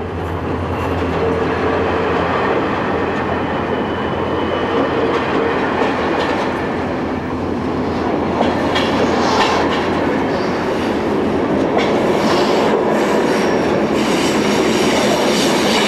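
Passenger train coaches rolling past close by, a steady rumble of wheels on rails that grows slightly louder, with a run of clicks from the wheels over the track in the second half.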